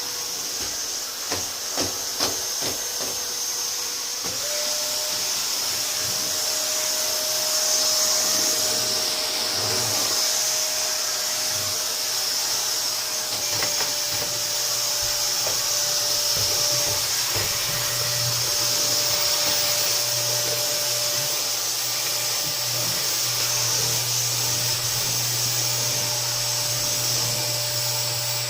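Canister vacuum cleaner running steadily, a hissing rush of air over a constant motor whine, with a few sharp clicks in the first few seconds.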